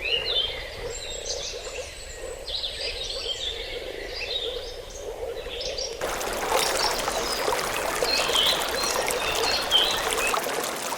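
Birds chirping over the steady rush of flowing water. About halfway through, the water noise suddenly becomes louder and fuller while the bird calls continue.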